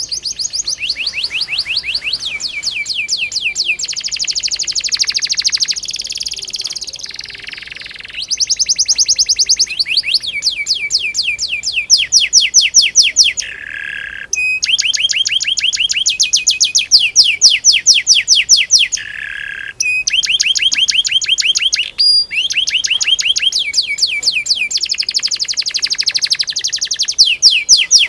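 Canary singing a long rolling song: fast trills of rapidly repeated high notes, one run after another changing in pitch, with a few brief breaks.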